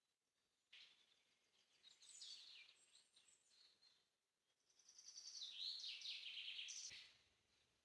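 Faint songbird singing: a short phrase of high chirps about two seconds in, then a longer run of quick, high notes from about five to seven seconds.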